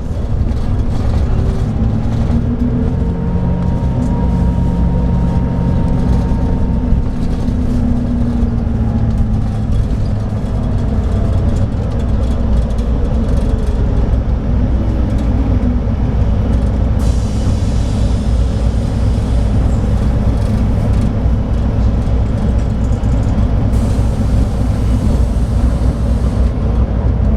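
Scania K340IB coach's DSC9 nine-litre six-cylinder diesel running under way, a steady low drone whose pitch rises and falls a few times.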